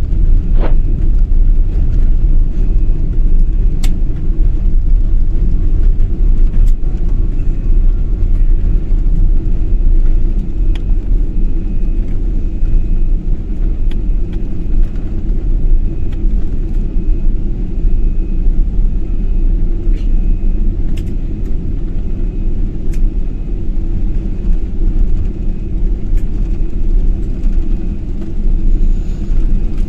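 Loud, steady low rumble throughout, with a few faint clicks.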